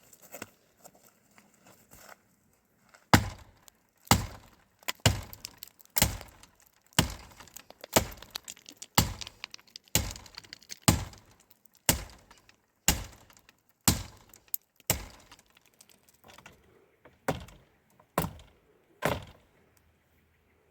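A tool striking wood in heavy, evenly spaced blows, about one a second, some seventeen in all, starting a few seconds in and stopping shortly before the end; the first blow is the loudest.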